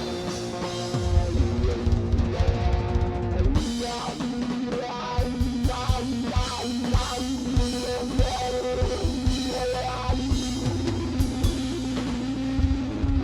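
A rock band playing live without vocals: a drum kit with bass drum hits driving a steady beat under electric guitar.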